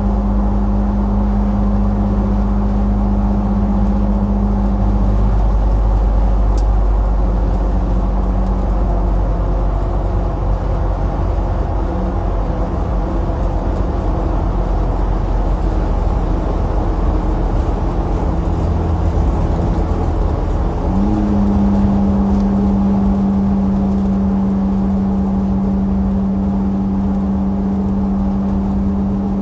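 Steady low mechanical rumble with a constant hum over it. The hum drops out about five seconds in and comes back, with a brief rise in pitch, about twenty-one seconds in.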